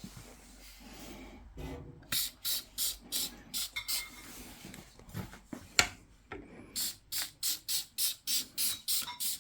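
Trigger spray bottle squirting foam glass cleaner onto sooty fireplace glass: quick hissing squirts about three a second, in two runs, with one sharp click between them.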